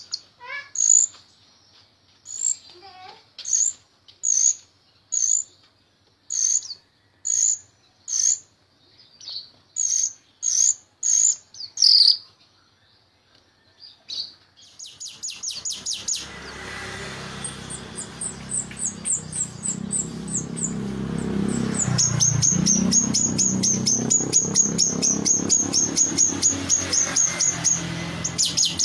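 Jalak rio-rio starling singing: first a string of sharp, loud, high calls about one a second, then after a short pause a fast, continuous run of rapid high repeated notes with a low rumble underneath, in the busy 'gacor' song used as a masteran track for training other songbirds.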